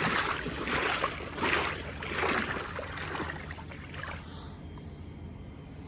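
Legs wading through knee-deep floodwater, sloshing and swishing with each stride in a loose rhythm, quietening towards the end.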